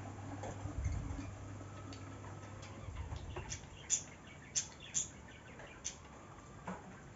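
A few short, sharp high chirps from small birds, about six spread over the second half. A low steady hum fades out about three seconds in.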